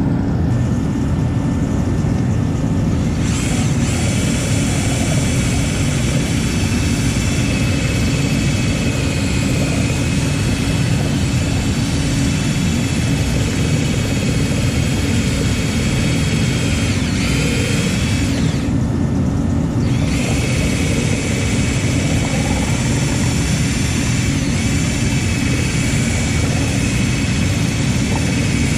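A machine running steadily with a loud, low rumble. A high whistling whine comes in a few seconds in, cuts out briefly about two-thirds of the way through, then resumes.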